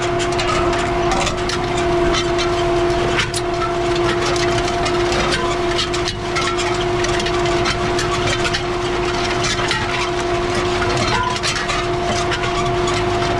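Kubota M5-111 tractor's diesel engine running steadily under load, pulling an International 37 disc harrow, with a steady whine and frequent clanks and ticks from the harrow's discs working the rough, rocky soil.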